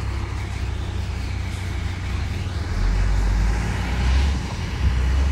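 Heavy diesel engine of earthmoving machinery running with a deep, steady rumble, getting louder about halfway through.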